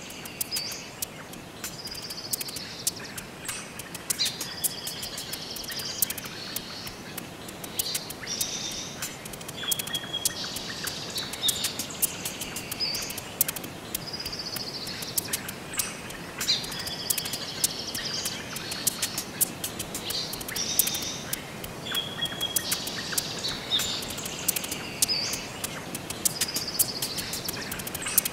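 Bird calls, high chirps and falling whistles over a steady hiss, with frequent sharp ticks. The same run of calls recurs about every twelve seconds, like a looped nature recording.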